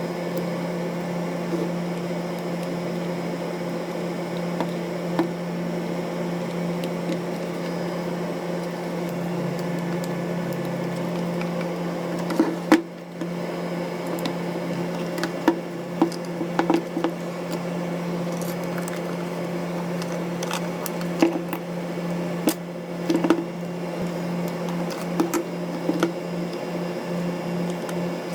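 A steady low electrical hum, with scattered small clicks and taps of tools and parts from camera disassembly. The clicks begin about halfway through.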